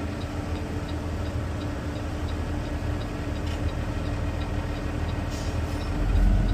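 Garbage truck engine running steadily at idle, with a faint, fast, regular ticking over it. About six seconds in, a deeper rumble swells up briefly.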